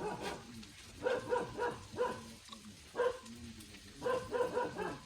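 A dog barking: quick barks in short runs, about four runs a second or so apart.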